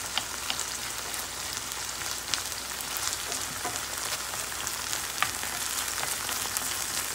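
Frozen okra frying in hot oil in a cast-iron skillet on high heat: a steady sizzle with scattered sharp pops.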